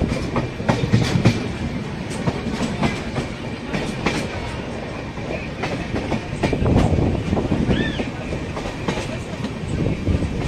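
Indian Railways express train heard from on board, rolling slowly with a steady rumble and irregular clicks of the wheels passing over rail joints.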